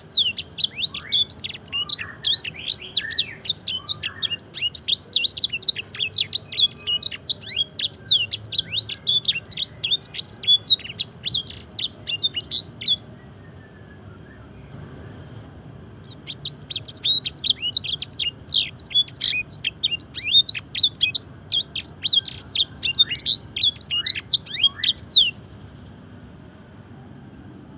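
A domestic canary singing fast, dense bouts of high chirps and trills, its song filled with phrases copied from the blackthroat and the edel sanger canary. One long bout breaks off about halfway through, and after a pause of a few seconds a second bout runs until a few seconds before the end.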